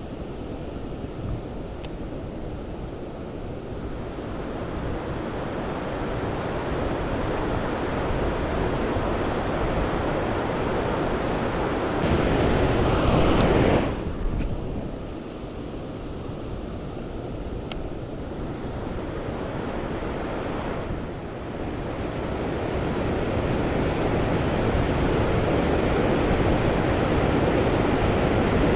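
Fast-flowing river water rushing steadily. It surges louder briefly about halfway through, then drops back and slowly builds again.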